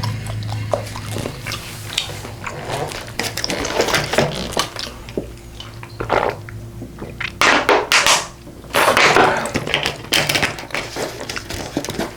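Close-miked eating of braised pork ribs: wet chewing and smacking in irregular bursts, loudest about two thirds of the way in.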